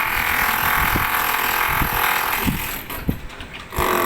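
Stick (arc) welding on galvanized iron pipe: the arc buzzes and crackles steadily, breaks off near the end, and is struck again about a second later.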